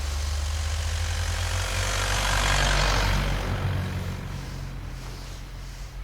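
Off-road 4x4 engine running at low revs with a broad hiss that swells to its loudest about halfway through and then fades away.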